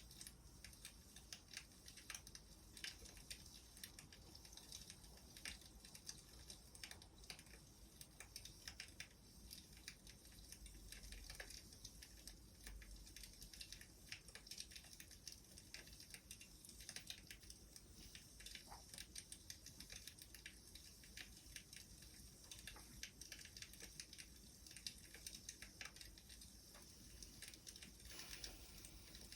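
Faint crackling of a burning wood fire: irregular small pops and snaps over a low hiss.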